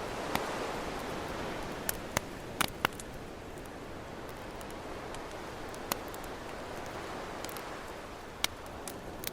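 Campfire crackling with sharp, scattered pops over the wash of ocean waves; the surf swells near the start and again late on.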